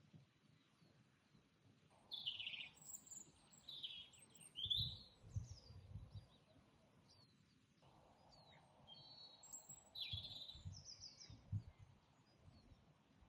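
Small songbirds chirping and singing faintly, with quick high calls and short sliding notes that start about two seconds in, pause briefly midway, then resume. Faint low rumbles sound under the calls twice.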